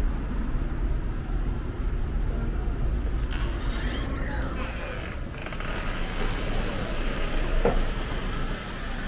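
Steady city street traffic noise, a low rumble of cars and buses running past, with one brief sharp sound about three-quarters of the way through.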